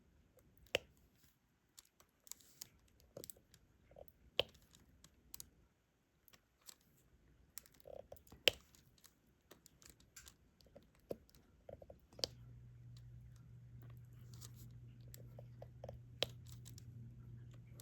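Diamond-painting stylus picking up and pressing resin drills onto the canvas: scattered light clicks and taps at an uneven pace. About twelve seconds in, a low steady hum starts and keeps going.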